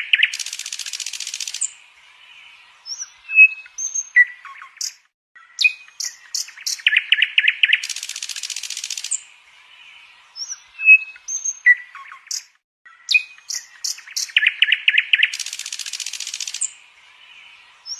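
Birds chirping and calling: a run of short high chirps, a fast trill, then a harsh buzzy stretch of about a second and a half, followed by scattered whistled notes. The same sequence repeats about every seven and a half seconds.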